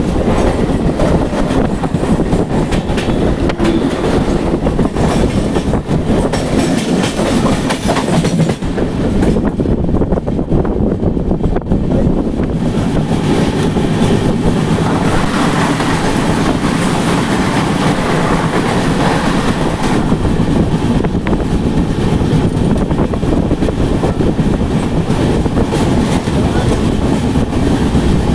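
Duronto Express passenger train running along the track, a steady loud rumble with the wheels clattering over the rail joints. The high hiss drops away for a few seconds about ten seconds in.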